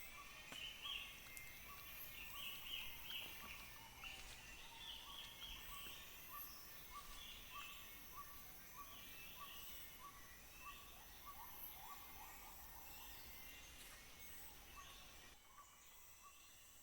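Faint Borneo rainforest ambience. A short note repeats evenly, a little under twice a second, under scattered bird calls and a steady high insect drone. Near the end most of the higher calls drop away while the repeated note continues.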